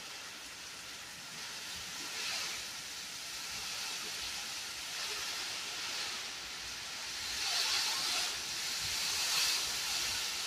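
Heavy rain pouring down as a steady hiss, swelling louder about two seconds in and again near the end.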